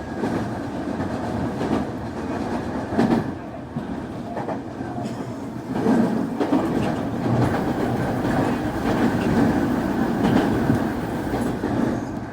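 Running sound of a Semboku 9300-series electric train heard from on board: a steady rumble of wheels on rail, with a few clacks over rail joints.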